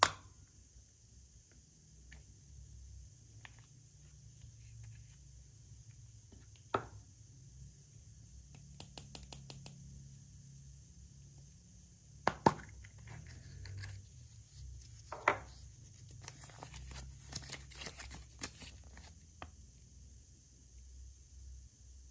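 Packaging being handled and torn open by hand: a few sharp knocks, then a stretch of crinkling and tearing near the end.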